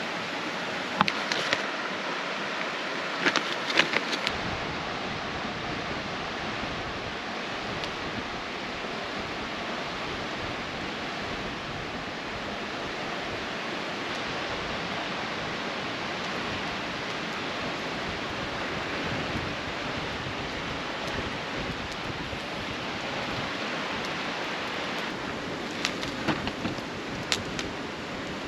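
Steady rushing outdoor noise, like running water or wind, with a few sharp clicks about one to four seconds in and again near the end.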